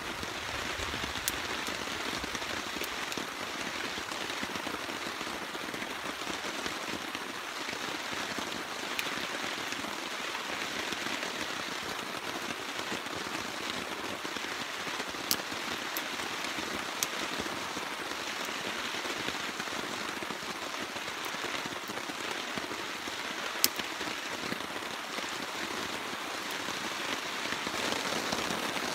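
Steady rain falling and pattering on surfaces, with a few isolated sharp ticks standing out, the loudest about two-thirds of the way through.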